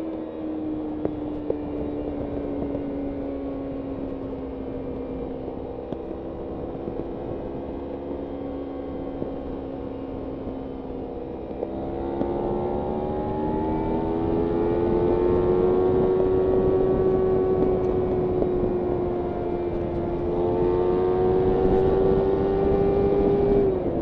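Kawasaki Ninja 300's parallel-twin engine under way, over a rush of wind noise. The revs sag slowly for about ten seconds as the bike coasts, then climb as the throttle opens, hold, climb again and drop sharply near the end.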